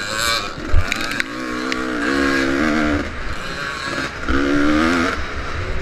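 Vintage motocross motorcycle engine revving hard, its pitch climbing and dropping twice as the rider works the throttle, with low thumps and a few sharp knocks.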